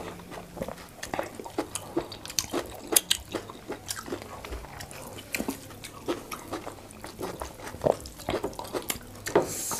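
Close-miked chewing and wet mouth sounds from people eating soft pounded yam and spinach stew with meat: irregular lip smacks and clicks, with a short hiss near the end.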